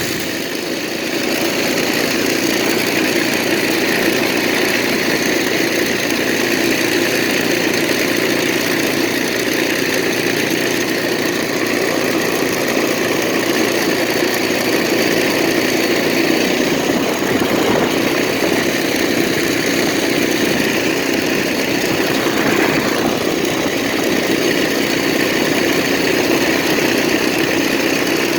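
Minibike's small engine running steadily.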